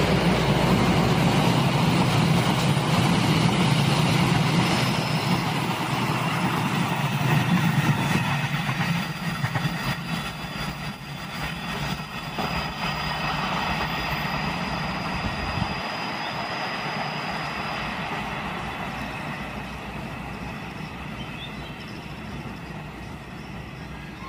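Passenger train carriages running over the rails on a curve, loud at first and fading steadily as the train moves away.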